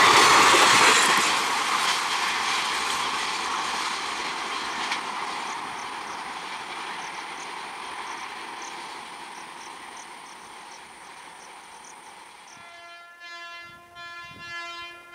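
Passing express train's wheel and coach noise, loud at first and fading steadily as the last ICF coaches and luggage van pull away. About 13 seconds in, an approaching EMU local train sounds a long horn, its loudness rising and falling.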